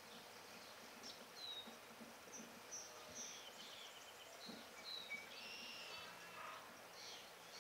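Faint chirps of small birds: short, high, scattered calls, a little busier from about five seconds in, over a light background hiss.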